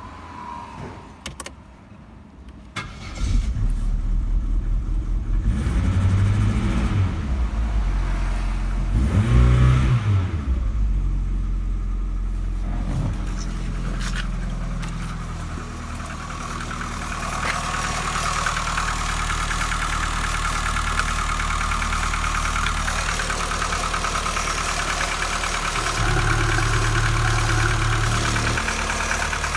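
Opel Astra F's 1.6-litre X16SZR four-cylinder petrol engine starting after a few clicks, revved up and down twice, then settling into a steady idle. The idle picks up slightly near the end.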